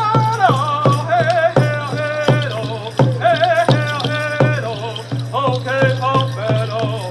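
A man singing a Native American hoop dance song in vocables, his voice wavering with vibrato, over a steady percussion beat of about three strokes a second.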